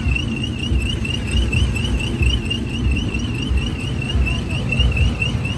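Truck engine rumbling unevenly under a continuous high warbling, alarm-like tone that wobbles about five times a second.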